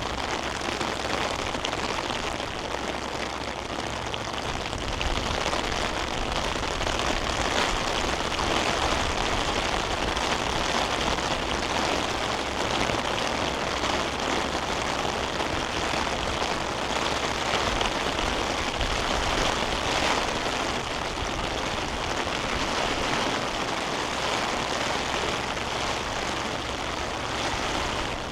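Heavy rain falling steadily, a dense, even hiss of drops on the ground and surrounding surfaces.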